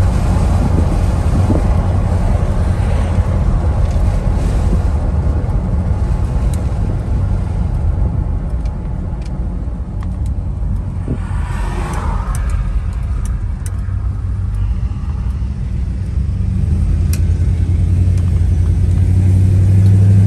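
1978 Ford Ranchero GT's 400 cubic-inch V8 running through its dual exhaust at road speed, heard from inside the cab with tyre and road noise. It eases off somewhat in the middle and grows louder near the end.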